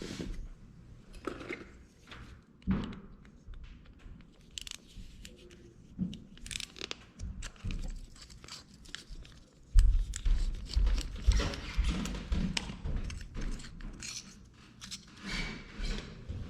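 Hand work on furnace igniter wiring: scattered sharp snips and clicks of wire cutters and small parts being handled, with a sudden heavy thump about ten seconds in followed by a few seconds of rustling handling noise.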